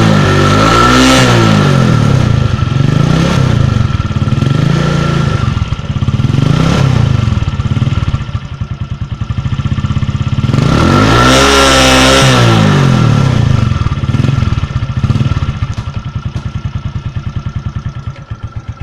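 Suzuki Shogun 125R's single-cylinder four-stroke engine being revved in short blips, with one big rev about eleven seconds in, then dropping back to a lumpy idle with slow, separate firing pulses near the end.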